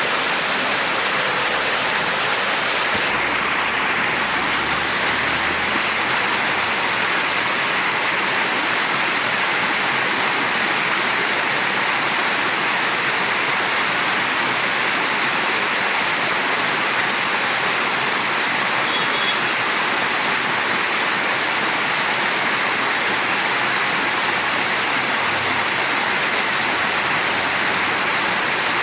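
Mountain stream rushing over rocks: a steady, unbroken water noise, mostly hiss-like.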